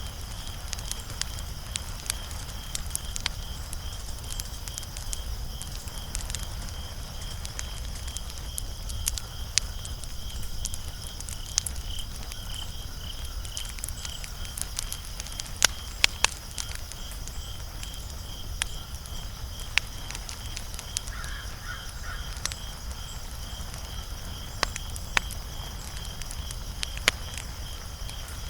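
Wood fire crackling, with sharp pops scattered irregularly throughout and a few louder snaps about midway, over a low steady rumble.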